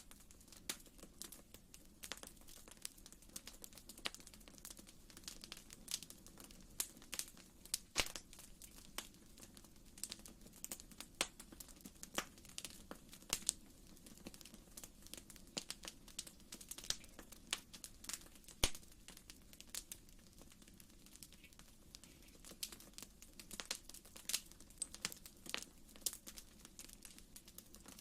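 Fireplace wood fire crackling, with many irregular sharp pops and snaps over a soft, steady low rumble of the flames.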